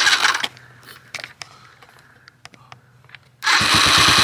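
Small handling noises, a short loud scrape at the start and a few light clicks, then about three and a half seconds in a dirt bike engine starts abruptly and runs steadily at idle with an even rapid beat.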